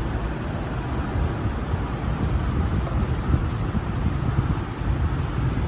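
A steady low rumbling noise with an even hiss above it, with no distinct strikes or tones.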